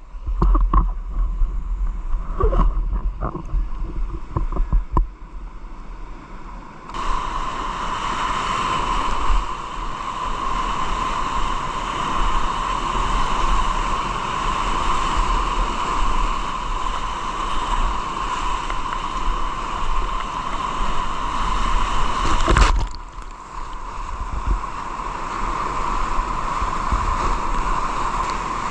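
Whitewater river rushing in a steady, loud roar, with wind rumbling on the microphone. A few sharp knocks come in the first several seconds before the water noise swells. The roar cuts off abruptly about two-thirds through and comes back.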